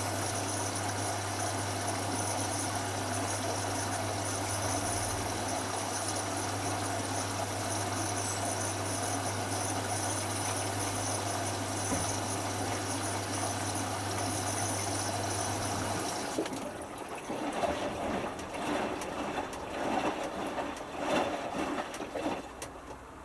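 Hotpoint Futura washing machine in its cool-down stage: water running through the machine with a steady electric hum, which cuts off about two-thirds of the way in. Uneven surges of water noise follow, then it goes quieter near the end.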